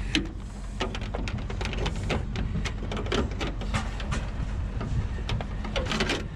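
Irregular clicks, clinks and knocks, several a second, of parts being worked loose and handled while scrap is taken apart by hand, over a steady low hum.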